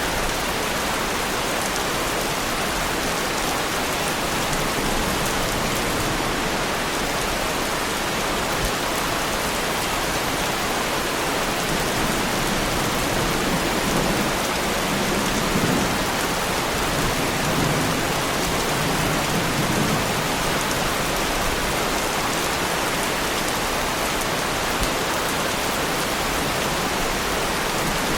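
Heavy rain falling steadily on a car, an even hiss of drops with low rumbles of thunder through the middle stretch.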